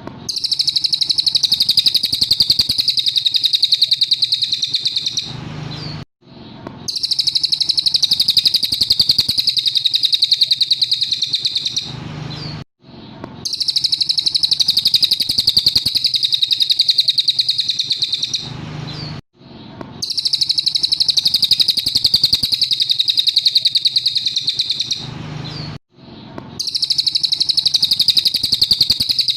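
Cililin songbird singing a fast, high, even trill in long bouts of about five seconds. The same phrase repeats after short breaks, as in a looped training (masteran) recording.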